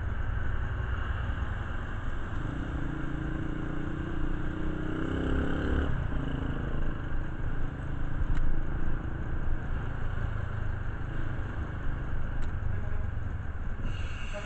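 Motorcycle engine running, its pitch climbing for a few seconds and then dropping back about six seconds in.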